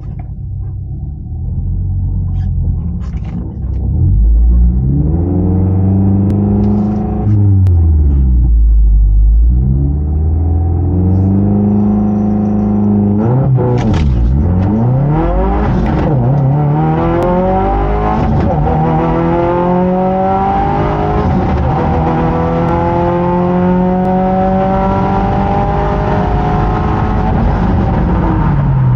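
2022 Subaru WRX's turbocharged 2.4-litre flat-four, tuned to about 363 hp, heard from inside the cabin. The revs rise and fall a few times at the start line, then about 14 seconds in the car launches and accelerates hard down the drag strip. The engine note climbs steadily through each gear and drops back at every upshift.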